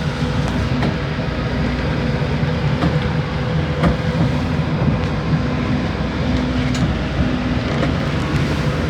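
Fishing boat's engine running steadily in a rough sea, with wind and water noise and a few sharp knocks from the hull or gear.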